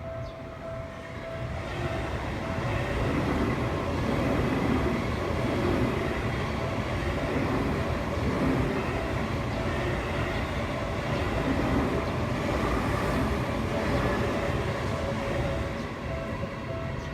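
A Seibu Shinjuku Line electric commuter train passes through a level crossing. Its rumble builds about two seconds in and eases near the end, while the crossing's warning bell keeps ringing under it.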